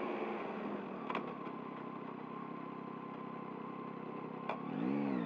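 2023 Yamaha MT-09's three-cylinder engine running at low revs off the throttle, under steady road noise, with two sharp clicks about a second in and near the end. Then the revs rise and fall quickly, a short blip of the throttle.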